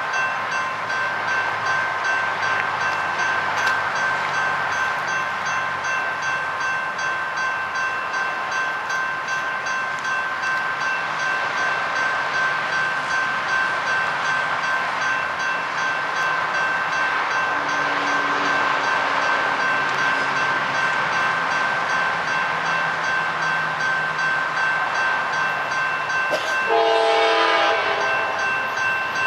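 A train rolling along with a steady high-pitched ringing tone throughout, then a short blast of its horn near the end.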